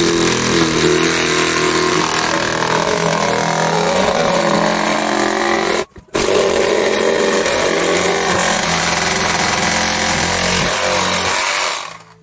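Handheld power saw cutting through a sheet of material, running steadily in two long runs with a short stop about six seconds in, and shutting off near the end.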